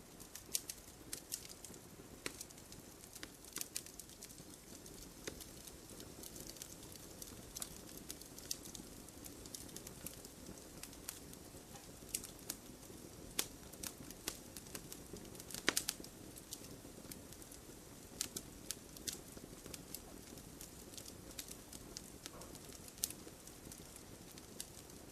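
Campfire burning with a steady low hiss and irregular sharp crackles and pops, one louder pop about two-thirds of the way through.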